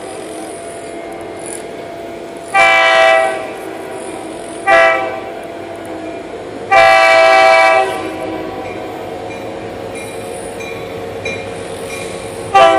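Florida East Coast Railway freight locomotive sounding its multi-note air horn: a long blast, a short one, then another long one, over the steady rumble of the train running.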